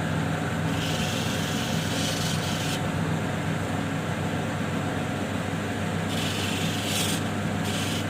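A small opal held by hand against a running water-fed 1200-grit lapidary grinding wheel, grinding with a hiss in two spells, one about a second in and one near the end, over the steady hum of the wheel's motor.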